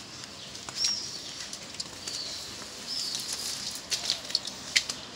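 Small birds chirping: three short high chirps about one, two and three seconds in, with scattered sharp ticks over a steady street background.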